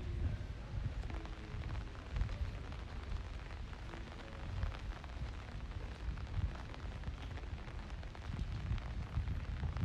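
Wind buffeting the microphone in an uneven low rumble, over a steady hiss of rainy street ambience.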